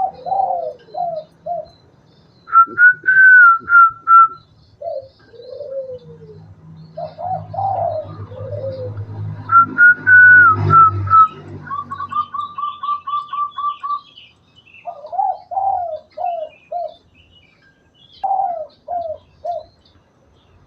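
Spotted dove cooing in repeated short phrases of low, falling notes. Louder, higher whistled phrases come twice, and a quick run of about a dozen even notes follows the second one.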